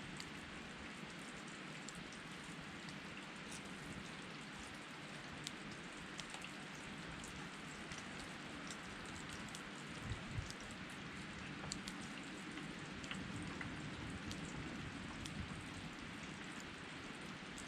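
Steady rush of a river with a wood campfire crackling, small sharp pops scattered throughout. A brief low thud about ten seconds in.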